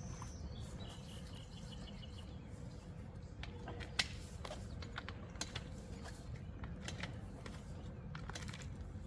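Faint scattered clicks and knocks of fiberglass trampoline mat rods being handled and pushed into their frame sockets, with one sharper click about four seconds in.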